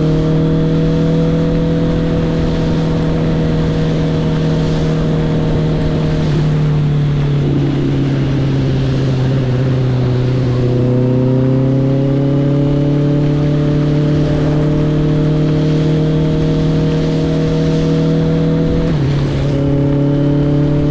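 Honda CB650R's inline-four engine, through its stock exhaust with the valve opened up, riding along at steady revs. It eases off midway, then pulls up again, and the revs drop sharply near the end with an upshift. A steady rush of wind and road noise runs under it.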